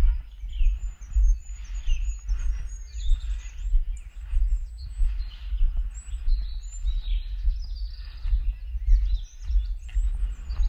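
Small birds chirping and singing in short, high-pitched calls throughout, over an uneven low rumble on the microphone that is louder than the birds.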